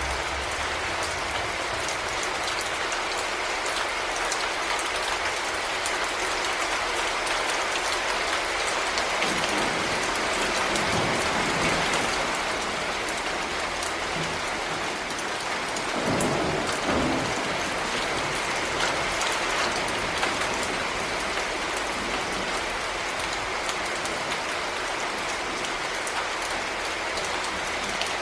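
Heavy rain falling steadily, a dense hiss of drops on surfaces. Twice, about ten seconds in and again around sixteen seconds, a low rumble of thunder swells up under it.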